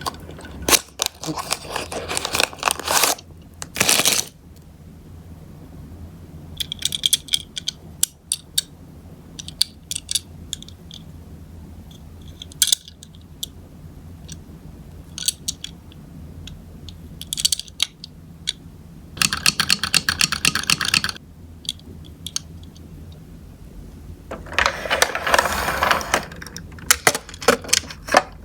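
Die-cast Tomica toy cars clattering and rattling against a plastic toy car-carrier as they are rolled and loaded, in repeated bursts of metallic clicking, some a second or two long, others single clicks.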